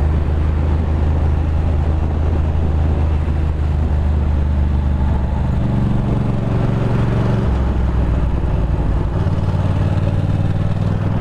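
Ducati Monster 620's air-cooled L-twin engine running at a steady cruise, its note stepping up and down a few times as the throttle changes.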